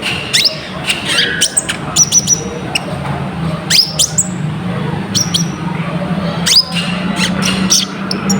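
Male konin (kolibri ninja, Van Hasselt's sunbird) calling excitedly, a lure song of rapid sharp high chirps and short trills, many sweeping down in pitch. A steady low hum runs underneath.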